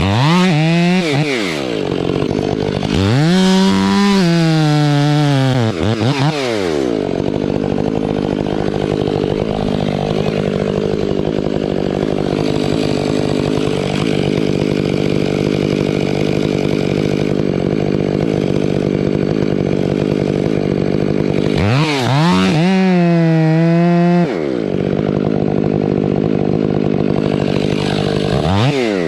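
Large chainsaw cutting into a fir trunk: it runs steadily under load for long stretches, with the engine revving up and dropping back several times as the bar is eased in and out of the cut.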